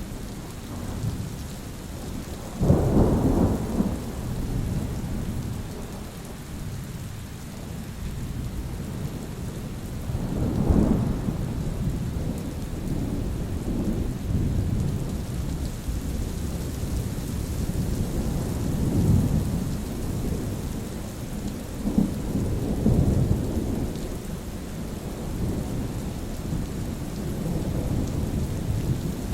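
Steady rain with rolling thunder. A sudden thunderclap about three seconds in is the loudest, another peal comes near ten seconds, and lower rumbles follow later.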